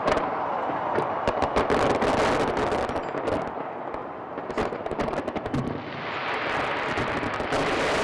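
Fireworks bursting overhead: rapid bangs and crackles, several a second and sometimes in quick runs, giving way near the end to a steady rush of noise that swells up.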